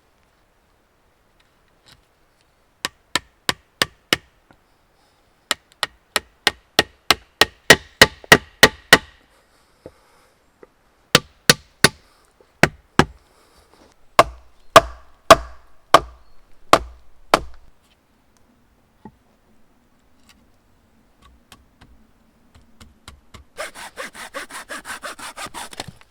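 Wood being cut with a hand tool: runs of sharp, evenly spaced strokes about three a second, broken by short pauses, then a short stretch of quicker rasping strokes near the end.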